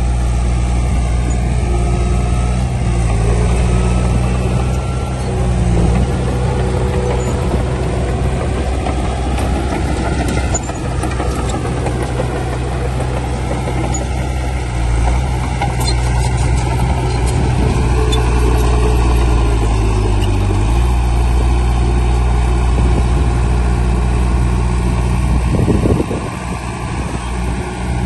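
Heavy diesel engines of earthmoving machinery running steadily, their pitch shifting now and then as the machines work. The level drops briefly near the end.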